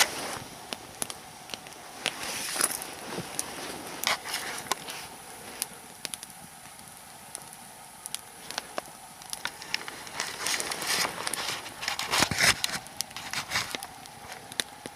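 Nodya log fire, two long logs burning lengthwise, crackling with irregular sharp pops over a faint hiss, busier and louder for a few seconds about two-thirds of the way through.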